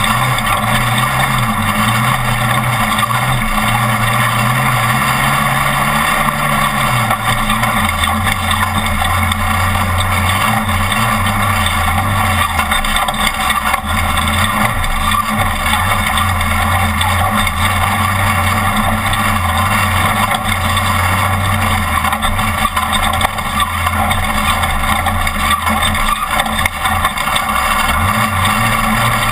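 Off-road race truck's engine running hard over loud, steady noise from the truck. Its pitch drops a little about seven seconds in and climbs again near the end.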